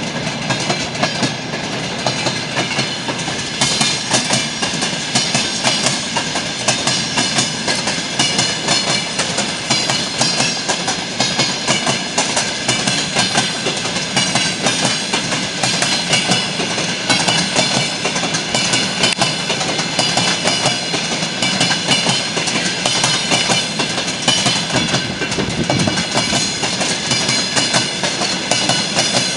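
Railway wagons of a maintenance train rolling past, wheels clattering steadily over the rail joints.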